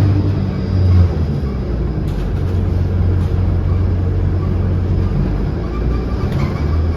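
City bus engine and road noise heard from inside the cabin while riding, a steady low drone.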